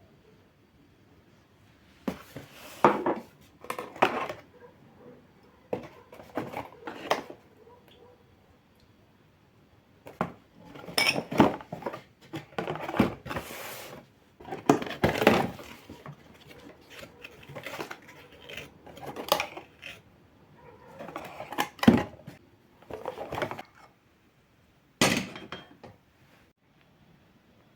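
Kitchen clatter: dishes, pots and utensils being handled and set down, in irregular bursts of clinks and knocks with short quiet gaps.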